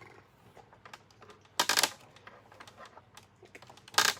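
Vacuum cleaner parts being handled while a handle is fitted: light clicks and taps, a short louder clatter about one and a half seconds in, and a sharp clack near the end.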